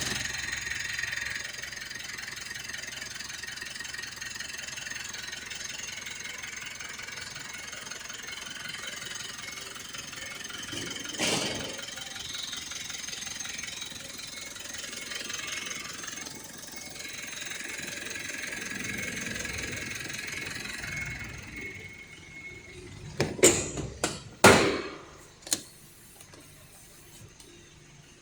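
Mitsubishi Triton 2.4-litre engine running steadily with a light whine, giving a short louder burst partway through and swelling a little before it shuts off. A few sharp knocks or thumps follow near the end.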